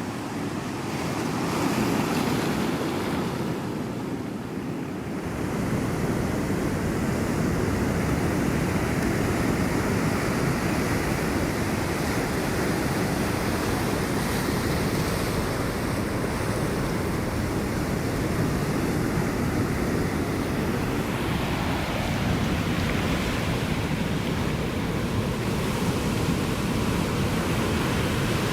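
Ocean surf breaking and washing on the shore in a continuous rushing roar, easing briefly about four seconds in and surging again later.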